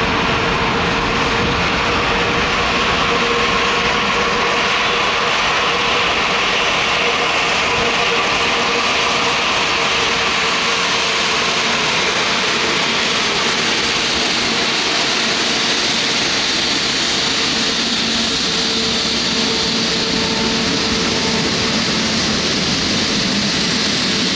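Jet airliner's engines running loud and steady, close by, with a high whine that grows stronger toward the end.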